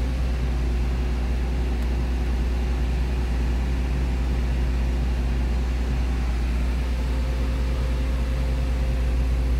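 Renault Twingo's petrol engine idling: a steady low hum, even throughout.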